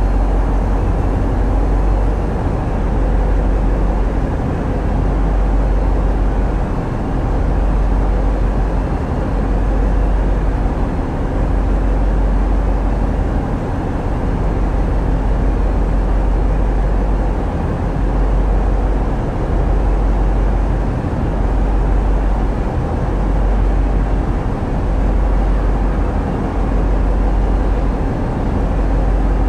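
Tugboat's diesel engines running steadily, a deep low rumble with faint steady tones above it and a gentle swell in level about every two seconds.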